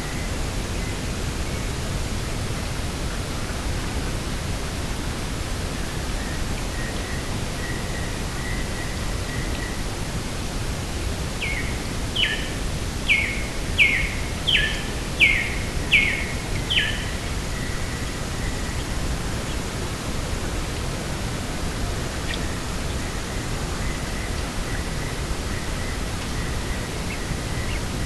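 Steady wind hiss over open ground. About a third of the way in, a bird calls a run of about eight clear notes, each sliding down in pitch, a little over one a second, and a faint high repeated note carries on quietly before and after it.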